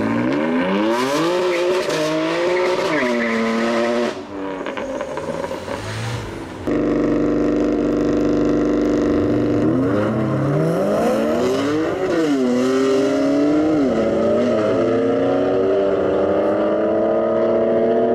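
BMW M4's twin-turbo straight-six, its revs rising and falling several times, then held at a steady pitch for a few seconds after a cut. It is blipped up and down again and then runs in one long rising pull as the car accelerates.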